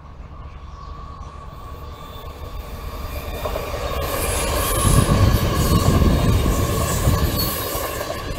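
Dutch NS double-deck electric passenger train passing close by. Its rumble and rail noise build up and are loudest about five to seven seconds in, with a steady high-pitched whine over it.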